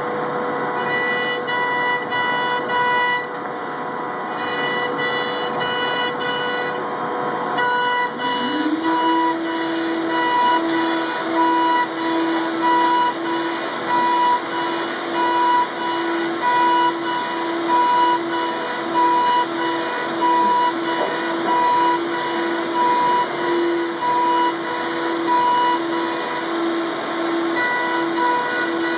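Spindle motors of a double-head CNC wood router whining steadily; about eight seconds in one spindle spins up with a rising whine and then holds its pitch. After that the whine swells and fades in a regular rhythm, about once a second, as the machine cuts.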